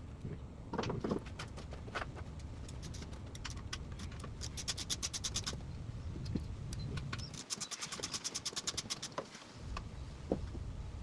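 Ratchet wrench clicking in two rapid, even runs of about a second and a half each, among scattered single metal clinks and knocks.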